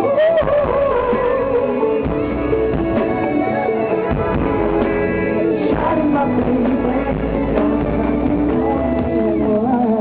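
Live pop concert music with singing over a band track, played loud through the hall's sound system.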